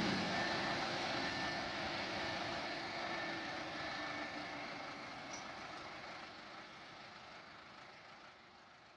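Running noise of a locomotive-hauled passenger train on the rails, fading steadily as the train draws away.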